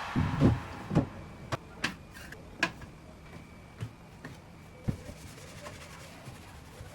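Irregular knocks and clicks, about eight over the first five seconds, with the sharpest ones early on.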